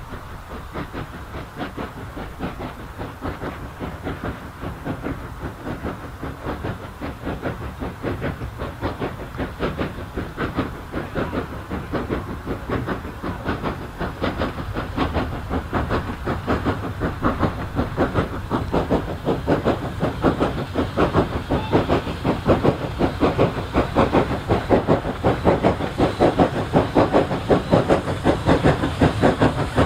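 Hunslet Austerity 0-6-0 saddle tank steam locomotive working hard with a train, its exhaust beats coming in a rapid, even rhythm with steam hiss, growing steadily louder as it approaches.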